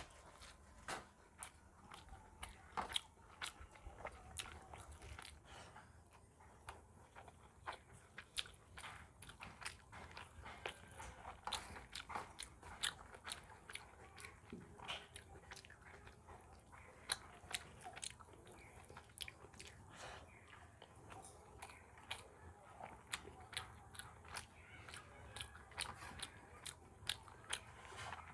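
Close-miked mukbang eating: a person chewing rice, saag and fish head curry with many sharp, irregular wet mouth clicks and smacks, several a second, and some crunching.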